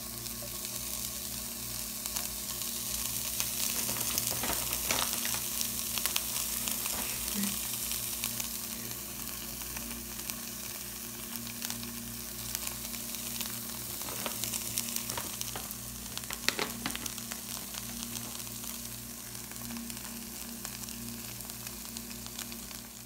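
Shredded cheese sizzling in a hot nonstick frying pan as handfuls are sprinkled in: a steady frying hiss with scattered sharp crackles, loudest a few seconds in.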